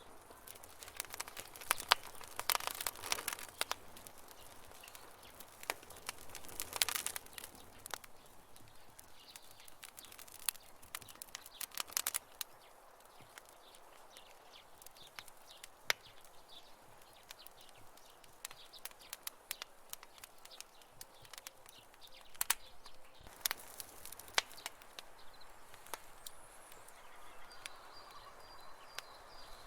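Wood fire burning with irregular crackles and sharp pops, denser in short flurries.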